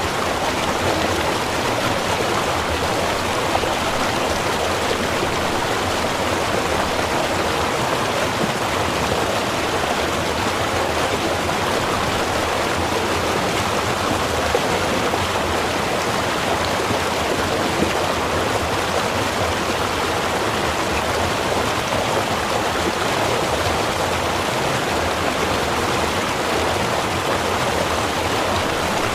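Small river running, a steady, even rushing of water.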